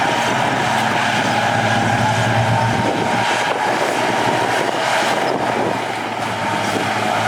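Heavy diesel earthmoving machinery running steadily, a constant low engine hum with a faint steady higher tone above it, easing slightly about six seconds in.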